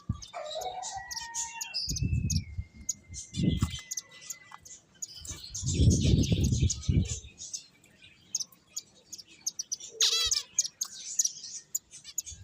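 Pet finches chirping and tweeting rapidly, with short high calls and one longer held whistle. Several low dull thuds or bumps break in, the loudest about six seconds in.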